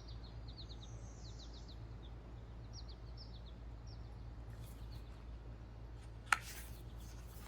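Small birds chirping in quick runs of short, high, falling notes over a steady low background rumble of open air. A single sharp, short sound cuts in about six seconds in.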